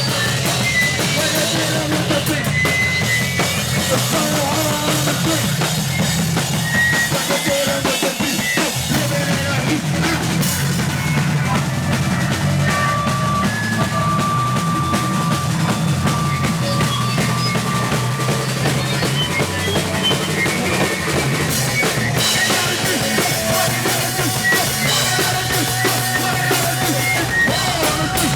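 Punk band playing live and loud, with the drum kit most prominent.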